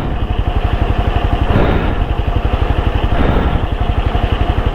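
Motorcycle engine idling, its exhaust beating in a steady, rapid pulse.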